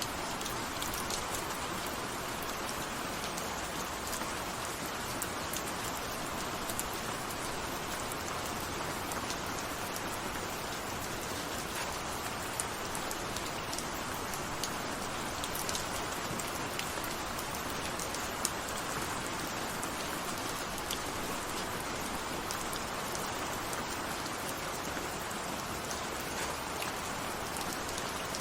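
Steady rain falling, an even hiss with scattered sharp ticks of single drops striking.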